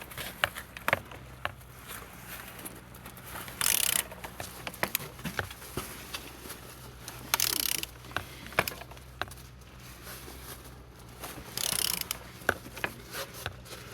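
Used car engine being turned over by hand with a wrench: a run of sharp metallic ratchet clicks, with three longer rushing bursts about four seconds apart as the engine is rotated through its compression strokes, which turn freely with good compression.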